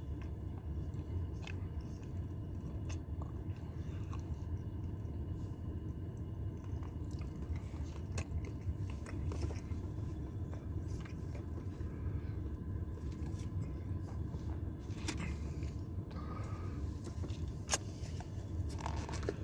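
Person chewing bites of a Subway pepperoni and cheese sidekick dipped in sauce, with small irregular mouth clicks, over a steady low rumble.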